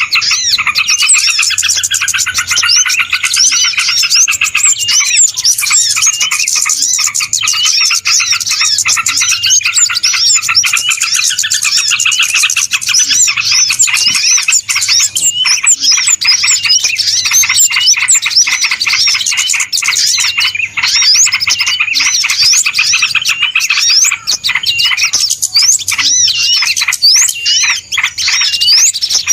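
A bird-lure recording of many small birds chirping and twittering at once, a dense, busy chorus of quick overlapping high calls with no break.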